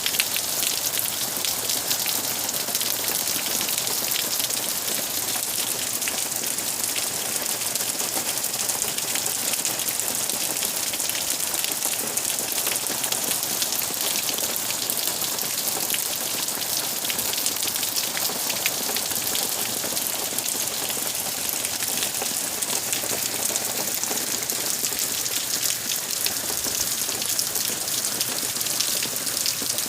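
Heavy hurricane rain falling steadily, a dense, even patter of drops with no letup.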